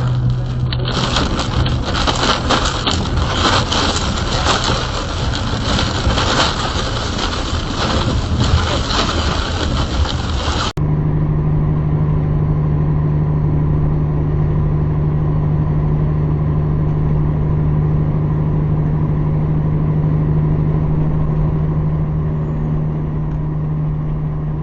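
Moving vehicle: a loud, rough road noise for about the first ten seconds, then an abrupt cut to a steady low engine hum.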